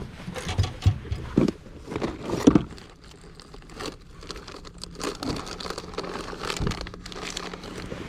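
Close rustling and crinkling with scattered knocks, several louder thumps in the first few seconds. A faint steady low hum begins about a third of the way in.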